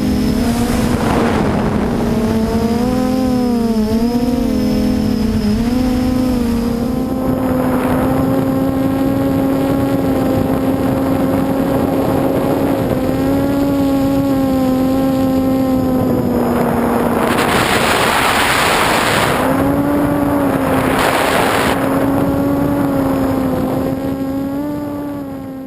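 QAV400 quadcopter's electric motors and propellers whirring, the pitch rising and falling as the throttle changes. Two stretches of rushing noise come in during the later part. The sound fades out near the end.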